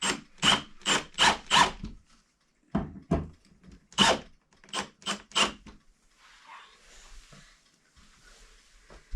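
Hammer tapping hinge screws to start them in the wooden door, about a dozen sharp taps in two quick runs, then a faint scratchy rubbing near the end.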